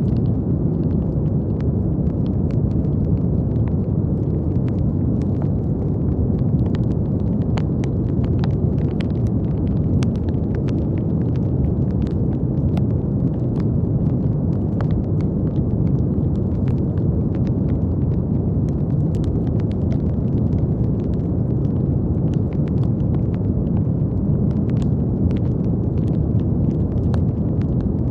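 Brown noise: a steady, deep rumbling hiss weighted to the low end, with faint scattered clicks like light crackle running through it.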